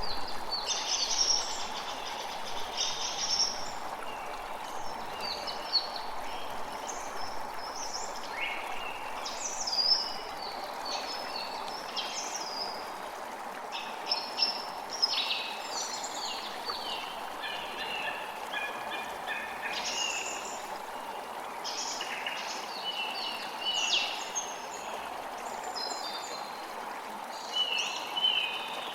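Birds chirping and calling over a steady rush of flowing water. The bird notes are short chirps and quick falling calls that come and go throughout.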